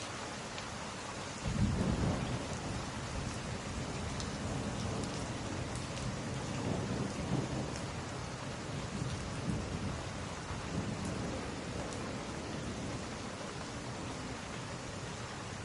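Steady rain with a roll of thunder that starts suddenly about a second and a half in, rumbles on in swells and slowly fades.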